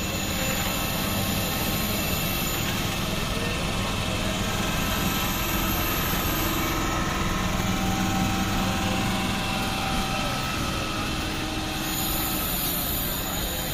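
MEMU electric multiple-unit train passing close by, a steady rolling rumble from its coaches running over the rails, with a faint low hum underneath.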